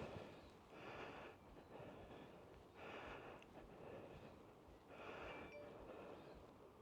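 A person's heavy breathing close to the microphone, with slow noisy breaths about every two seconds, after walking uphill.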